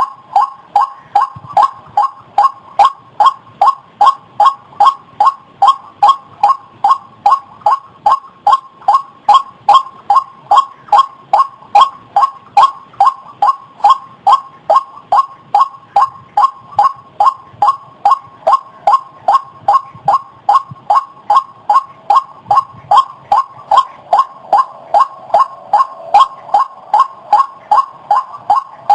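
White-breasted waterhen (ruak-ruak) calling: one harsh, pitched note repeated over and over at an even pace of about two to three a second.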